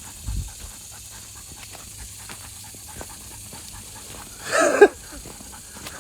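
A Belgian Malinois panting, with one short, loud voiced sound about four and a half seconds in.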